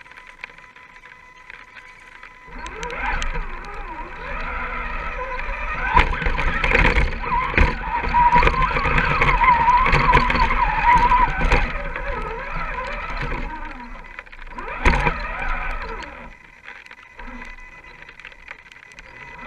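Electric motor and gear whine of a radio-controlled scale crawler driving, with the pitch wavering as the throttle changes. It starts about two and a half seconds in, is loudest in the middle and eases off after about sixteen seconds, with a few sharp knocks along the way.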